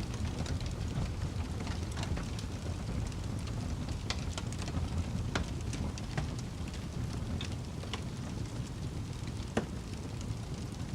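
Campfire burning, a steady low rumble of flames with scattered sharp wood crackles and pops. The pops are irregular, several a second at times, and one louder pop comes near the end.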